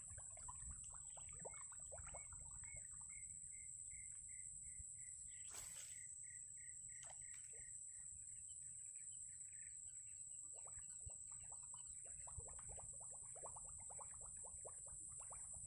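Faint wild outdoor ambience: a steady high insect drone, and a bird repeating one short note about three times a second for several seconds. Quick scratchy chirping is heard at the start and again in the second half, with one sharp click a little past halfway.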